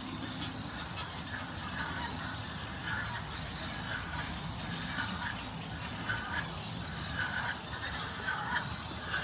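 Outdoor ambience: a steady, high, pulsing insect trill, with short bird calls repeating about once a second over a low background rumble.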